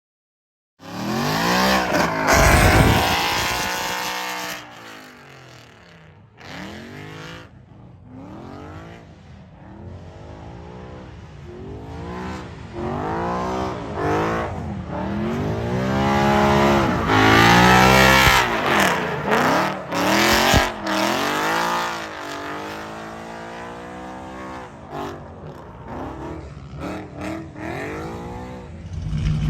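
Ford Mustang drift car's engine revved hard and let off over and over, its pitch rising and falling every second or two, with tyre squeal in the loudest stretches. It cuts in suddenly about a second in.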